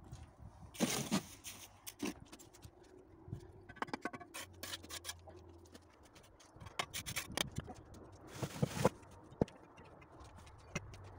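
Bricklaying by hand: irregular scrapes of mortar and brick, with small clicks and knocks as bricks are set in place, two longer scrapes about a second in and near the end.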